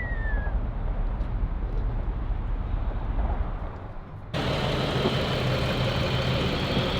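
A vehicle engine running steadily as a low rumble. About four seconds in, the sound cuts abruptly to a louder, fuller steady engine and road noise.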